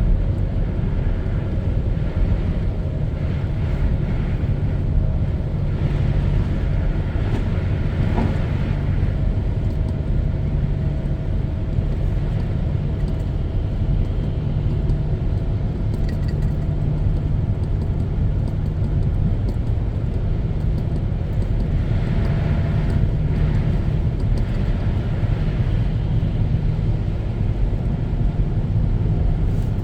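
A car driving at a steady speed, heard from inside the cabin: a continuous engine hum with tyre and road noise.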